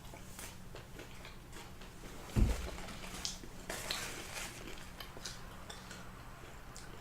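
Close-up chewing of crunchy fried chicken skin: scattered small crackles and mouth sounds, with one dull thump about two and a half seconds in.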